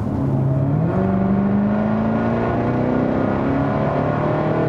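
Jaguar F-Type SVR's supercharged 5.0-litre V8 accelerating with the active exhaust valves open, the engine note climbing steadily in pitch as it pulls, after a quick step up about a second in.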